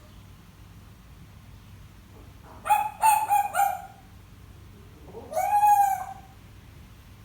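African grey parrot calling: a quick run of about five short squawking syllables, then, about two seconds later, one longer call that rises in pitch and then holds.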